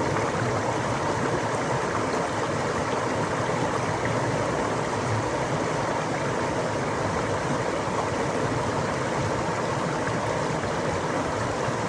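Running water, a steady even rush like a stream.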